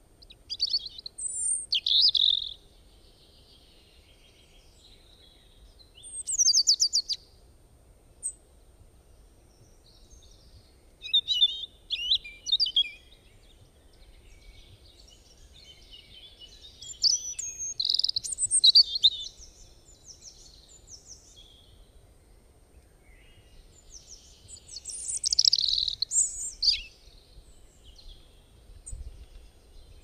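Songbirds singing in short phrases of high chirps and quick note runs, one phrase every few seconds with quiet gaps between.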